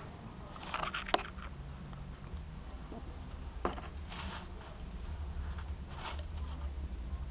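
Lizards feeding: a few short scraping rustles and clicks, the loudest a sharp click about a second in, over a low steady hum.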